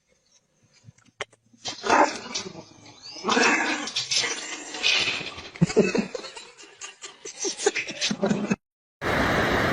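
A dog vocalizing in short, uneven bursts, starting about a second and a half in and cutting off abruptly near the end. A steady rushing noise takes over just after.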